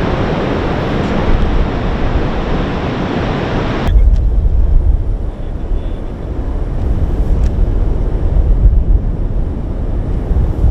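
Roar of a tornado's winds: a loud rushing noise for about four seconds, then an abrupt change to a deep, gusty rumble of wind buffeting the microphone.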